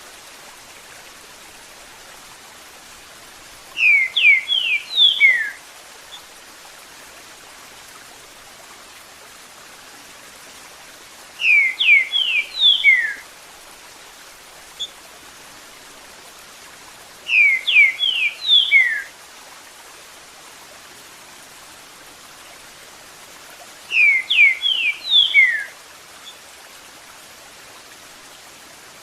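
Green-winged saltator (trinca-ferro) singing its 'Eu sou terrível' song four times, each a quick phrase of about five whistled notes, repeated every six to seven seconds. Between phrases a steady sound of running water.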